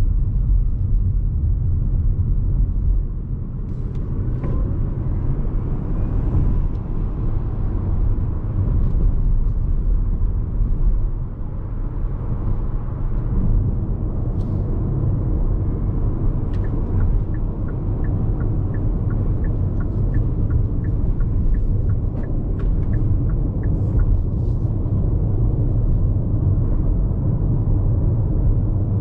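Road and tyre noise inside the cabin of a Hyundai IONIQ5 AWD electric car at highway speed: a steady low rumble. Midway, a run of light, evenly spaced ticks, about two a second, lasts for several seconds.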